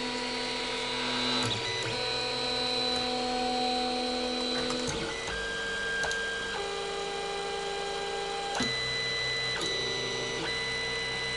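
Creality CR-10 3D printer printing: its stepper motors give a set of steady whining tones that jump to new pitches every second or so as the head's moves change.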